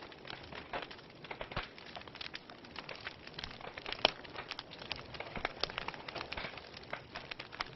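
Wood logs burning in a fireplace, crackling with irregular pops and snaps over a faint hiss, with one sharper pop about four seconds in.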